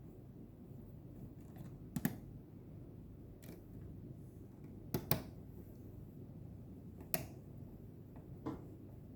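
A few sharp clicks and taps of small parts being handled while the battery in an Esybox Mini 3 pump's display is replaced: one about two seconds in, a quick pair around the middle, then two more near the end, over a low steady hum.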